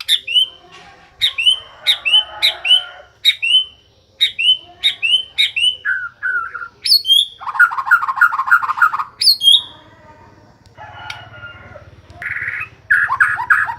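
White-rumped shama singing. A run of sharp whistled notes, each dropping steeply in pitch, comes one or two a second, broken by quick rattling trills of about seven notes a second around the middle and again near the end.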